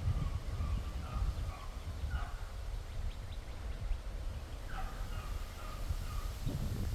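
Wind rumbling and buffeting the microphone, with a bird calling several times in short notes that step down in pitch.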